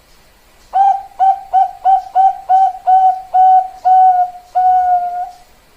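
Zebra dove (perkutut, Bangkok type) cooing its song: a run of about ten short, clear notes on one pitch that slow down and lengthen, ending in one long drawn-out note.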